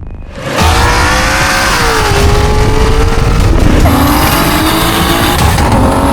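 High-horsepower street race car running hard at high revs, starting abruptly about half a second in. Its engine note slides and steps in pitch, and a high thin whine joins it about four seconds in.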